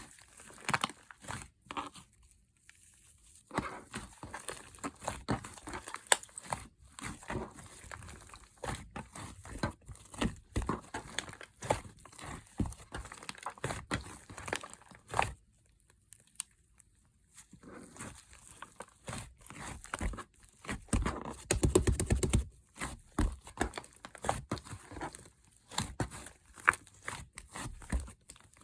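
Slime being squished and stretched by hand: irregular sticky crackling and popping clicks, pausing briefly twice, with a louder run of rapid crackles past the middle.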